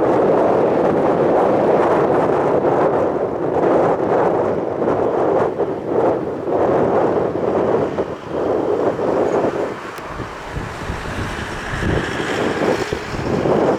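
Wind buffeting the microphone in gusts: a loud rushing noise that drops and turns rougher about ten seconds in, with a faint higher hiss near the end.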